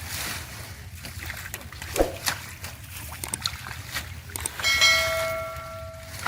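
Small splashes and rustling in shallow water, then about four and a half seconds in one bell-like metallic ring that dies away over a second and a half.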